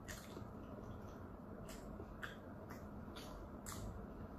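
Close-up wet chewing and lip-smacking of a chewy dumpling: soft squishes and sharp mouth clicks at uneven spacing, about two a second.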